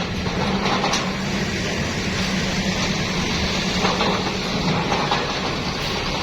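Heavy vehicle engine running steadily: a constant low hum under an even hiss of road or wind noise.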